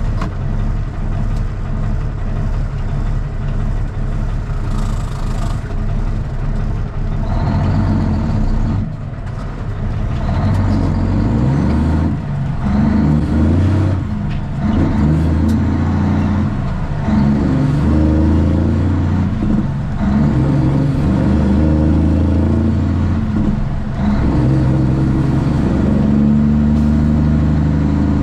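A straight-piped Cummins ISX inline-six diesel in a Kenworth T800 runs loud under load. Its note drops briefly every few seconds as the load changes, which fits gear changes.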